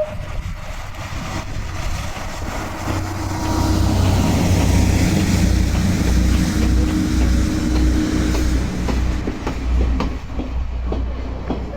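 Kominato Railway trolley train running along the track: a deep pulsing engine rumble and wheel-on-rail noise that swell to their loudest in the middle and ease off, with a few sharp clicks near the end.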